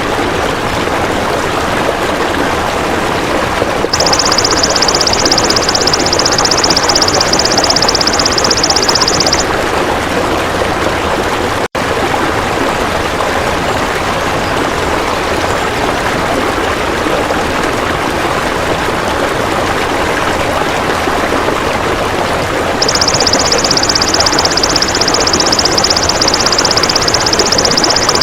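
Steady rushing of running water, with a high, fast-pulsing insect buzz from a golden grasshopper (belalang emas) in two stretches: one of about five seconds starting about four seconds in, and another over the last five seconds. The sound drops out for an instant near the middle.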